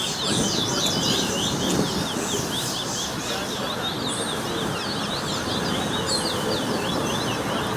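Competition songbird singing a fast, unbroken run of quick high chirps and short whistled notes over a steady background rush.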